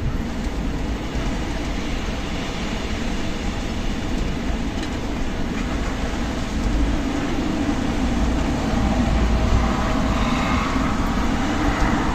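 Strong desert wind blowing in a continuous rush, with a heavy low rumble of wind buffeting the microphone. It gusts a little louder for a few seconds past the middle.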